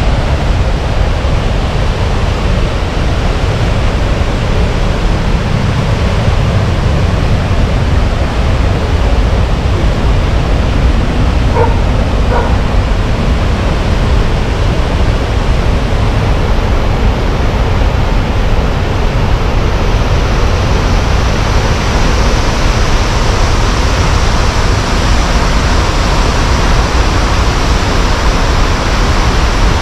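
Waterfall of Sgwd yr Eira pouring steadily, a loud, even rushing noise with a deep rumble. About twelve seconds in, a dog gives two short barks.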